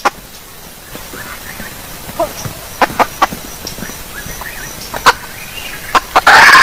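Female jungle fowl hen calling: faint, scattered clucks and a few sharp clicks over a steady hiss, then loud, rapid clucking that starts near the end.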